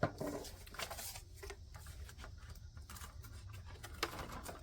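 Soft rustling and light scratching of paper being handled, in short scattered strokes.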